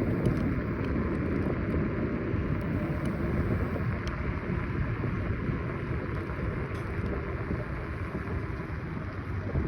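Wind rushing over the microphone with steady road rumble from a Kaabo Wolf Warrior 11 Pro electric scooter being ridden.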